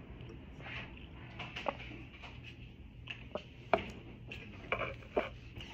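A person chewing and smacking their lips while eating: scattered short wet clicks and smacks over a low steady hum.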